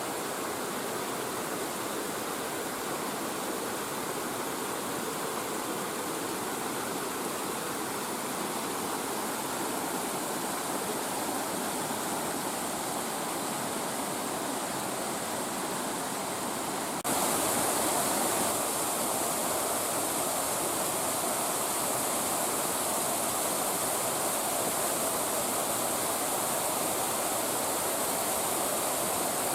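Mountain stream rushing down a chain of small waterfalls over bare rock, a steady full rush of water. About two-thirds of the way through it jumps suddenly louder and brighter, as if heard from closer to a fall.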